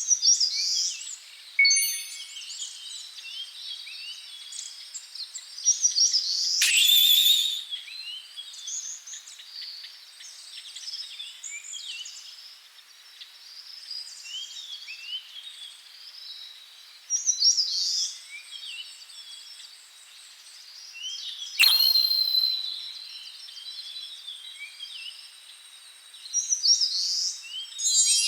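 Many small birds chirping and singing together, a dense chorus of short, quick notes, with a louder burst of calls about seven seconds in and a sharp call about twenty-two seconds in.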